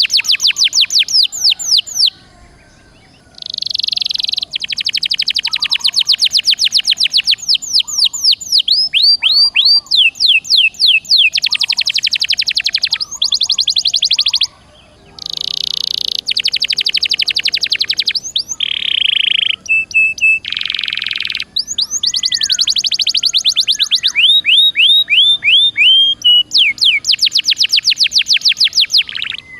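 Domestic canary singing a loud, long song of fast trills of repeated high notes, some buzzy and some falling sweeps, broken by two brief pauses. It is the full, vigorous 'gacor' song used as a master recording to prompt other canaries to sing.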